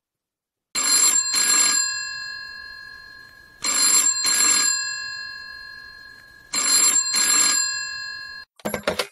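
Telephone ringing three times, each ring a double pulse of bell-like tones that fade between rings. It stops near the end with a short clatter as the call is answered.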